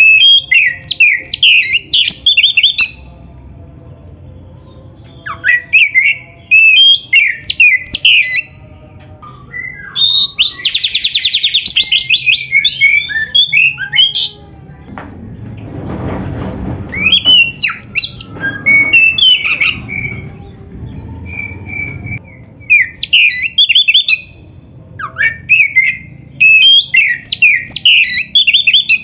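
Oriental magpie-robin (kacer) singing loudly in repeated bursts of quick, varied whistles and chattering phrases, with short pauses between bursts and a fast trill about ten seconds in. A low rushing noise sits under the song through the middle stretch.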